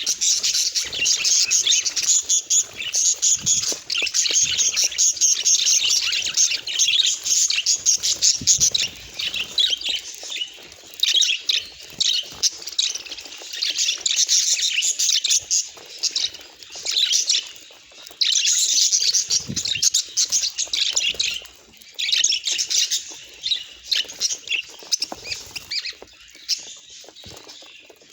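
Budgerigars chattering and warbling: rapid high chirps in long bursts broken by short pauses.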